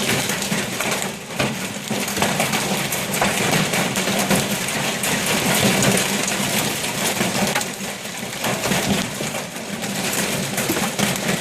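Heavy hail pelting hard surfaces: a dense, continuous clatter of countless small impacts.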